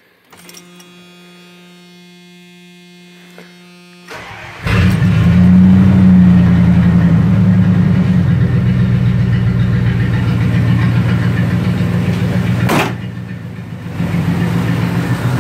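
A 1990 Dodge D150's 318 throttle-body V8 making a cold start after sitting a couple of days. A faint steady hum runs for about four seconds, then the engine cranks and catches at once, flares up and settles into a fast, even idle with no knocks or ticking. A sharp thump comes near the end.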